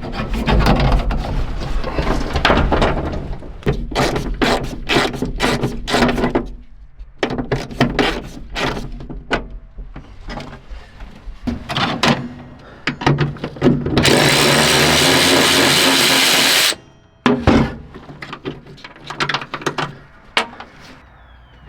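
Hand tools and metal parts clinking, knocking and rattling during a truck teardown, with a power tool running steadily for about three seconds two-thirds of the way in, then more scattered knocks.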